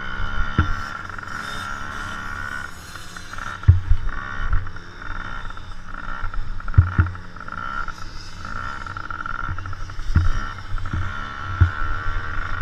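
Motocross bikes racing, their engines making a steady high-pitched drone that wavers in level, with several dull low thumps scattered through.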